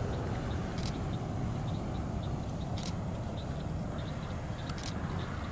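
Steady low rumble of road vehicles, with a short faint click about every two seconds.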